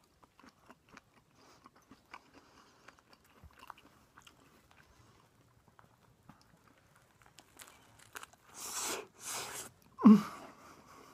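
A person chewing a lobster salad sandwich, with soft wet mouth clicks, followed near the end by two loud hissing noises and then one sudden louder thump.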